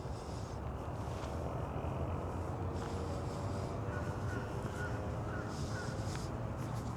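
Faint bird calls, a few short chirps about four to six seconds in, over a low, steady outdoor rumble.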